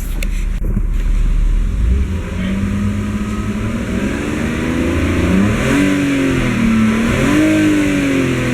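BMW M54 2.2-litre straight-six engine running, revved up twice and falling back between the revs.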